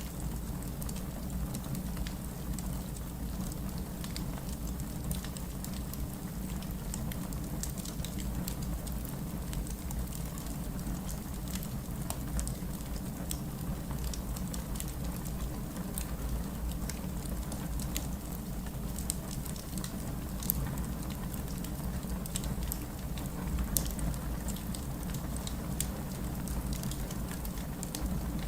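Steady rain with a low rumble under it, mixed with the scattered crackles and pops of a wood fire in a fireplace.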